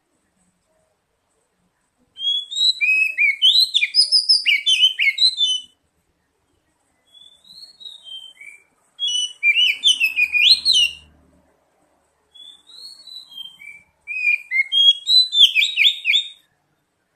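Oriental magpie-robin (kacer) song: three bursts of rapid, varied whistled phrases with quick sliding notes, separated by short pauses, played as a lure to prompt a young bird to sing.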